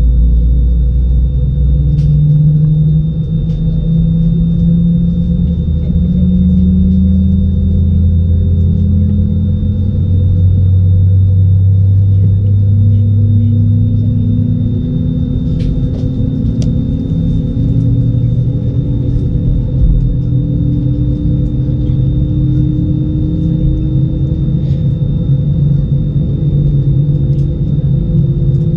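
Airbus A320 taxiing, heard from inside the cabin: a steady low rumble from its CFM56 engines at idle and its wheels on the taxiway, with pitched engine hums that drift slowly and a faint steady whine.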